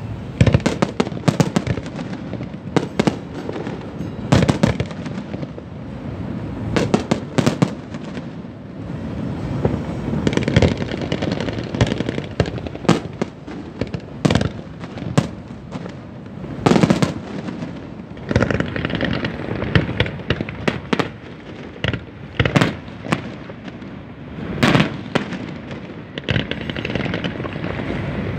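Aerial fireworks exploding in a continuous barrage: irregular sharp bangs, at times several in quick succession, over a steady wash of noise from the shells.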